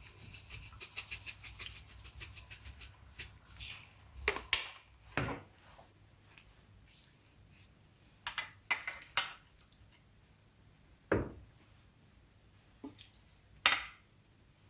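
Kitchen preparation sounds: a quick run of light rhythmic ticks for about three seconds, then scattered knocks and clinks of utensils and dishes, with the loudest knock near the end.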